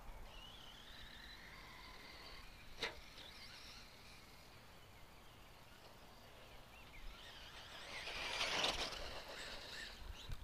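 Radio-controlled stadium truck running on the track, faint at first, then coming close and passing about eight seconds in, its sound swelling and fading away. A single sharp click about three seconds in.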